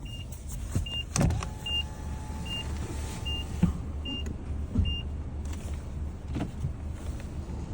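2022 Mazda 6 at low speed with a steady low rumble, plus a short high beep repeating about every three-quarters of a second that stops about five seconds in. A drawn-out steady tone sounds for about two seconds from just after the first second, amid a few knocks: the brake grinding noise the car has developed.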